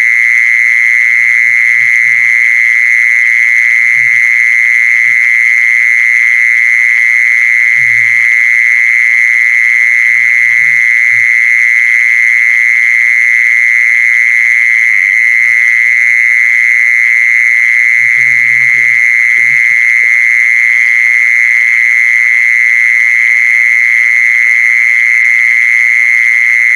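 A continuous high-pitched trilling call held at one steady pitch with no break, the kind of call recording played as a lure to bring the animal in. Faint low knocks sound every few seconds beneath it.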